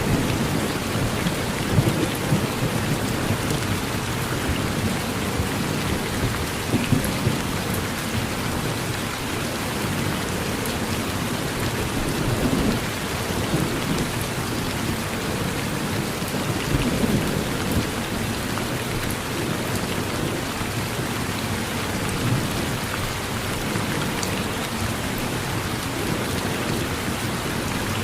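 Steady, heavy rain falling on a surface, with the low rumble of distant thunder swelling and fading several times.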